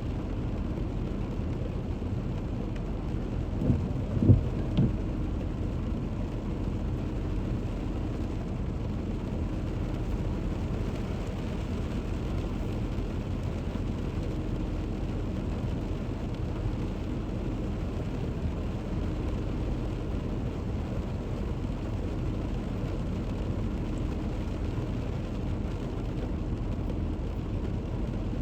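Steady drone of a car driving on a wet road in heavy rain: tyre and engine noise with rain hiss. Two short thumps come about four seconds in.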